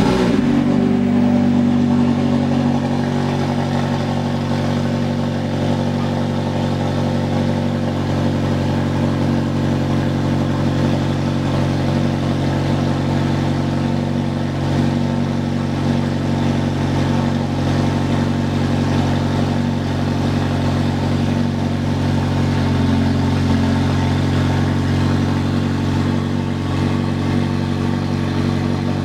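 McLaren 720S twin-turbo V8 idling steadily just after starting, a little louder for the first couple of seconds before settling into an even idle.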